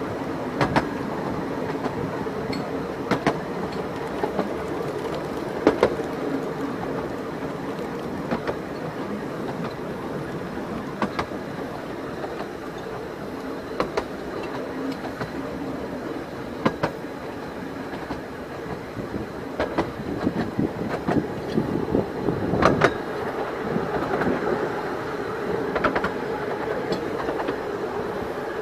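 Steady running rumble of a 15-inch-gauge steam-hauled passenger train heard from inside a coach. Sharp clicks from the wheels crossing rail joints come every two to three seconds, and the ride turns rougher and knockier a little over two-thirds of the way through.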